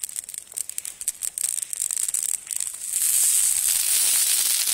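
Campfire crackling hard as a freshly added evergreen tree burns: rapid pops at first, then a dense, loud hiss and crackle of burning needles from about three seconds in.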